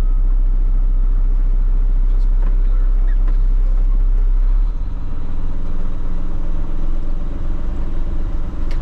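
Heavy diesel truck engine running with a deep, steady drone. About five seconds in, the deepest note drops away and the engine carries on with a rougher, slightly higher running sound.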